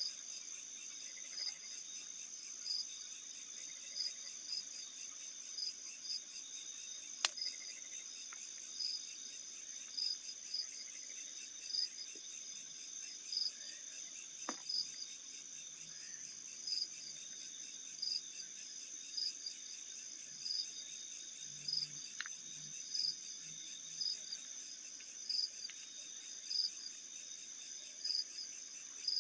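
Chorus of night insects, crickets among them, trilling steadily at a high pitch, with a regular chirp repeating about once a second. A single sharp click sounds about seven seconds in.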